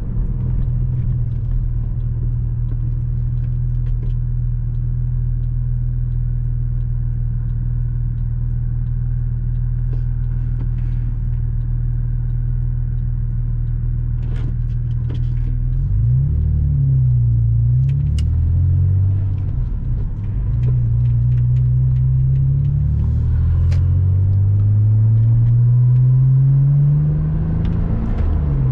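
Porsche Boxster 986 flat-six engine heard from the cabin, cruising at a steady pitch for the first half, then revving up and down through gear changes about halfway in, climbing in pitch for several seconds and dropping sharply at an upshift near the end.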